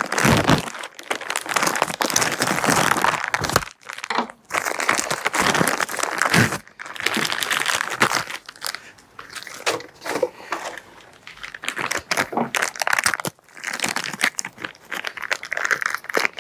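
Plastic packaging crinkling in irregular bouts as a new fork part is unwrapped and handled.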